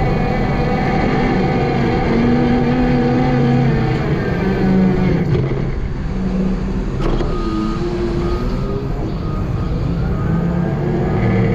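Vehicle engine running with a low rumble, its pitch rising and falling as the engine speed changes. There is a short sharp click about seven seconds in.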